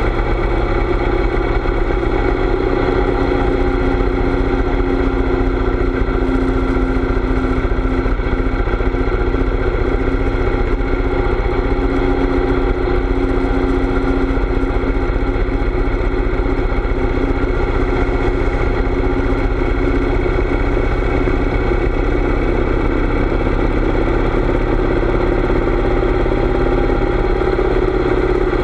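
Harley-Davidson V-twin motorcycle engine running steadily on the road, a continuous engine note over a low rumble.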